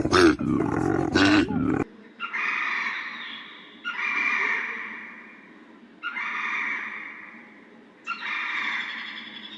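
Animal calls: a loud, low pulsing call cuts off about two seconds in, then a different animal gives four drawn-out high calls, each about two seconds long and fading away.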